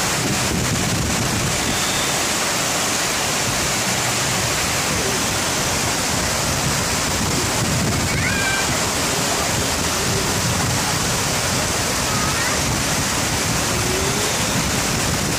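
Heavy rain falling in a dense, steady downpour.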